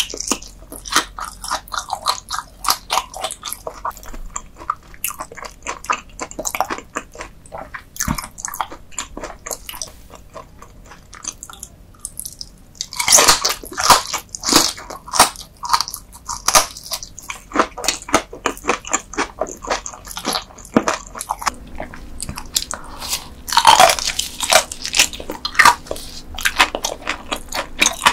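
Close-miked crunchy chewing of raw dotted gizzard shad sashimi eaten bone-in: a fast run of crisp crunches, with louder bursts of fresh bites about halfway through and again near the end.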